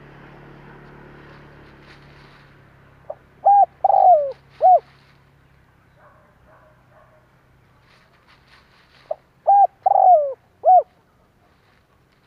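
Spotted dove cooing: two phrases about six seconds apart, each a quick run of short coos with a longer falling note in the middle. It is the kind of call played as a lure to provoke wild doves into answering.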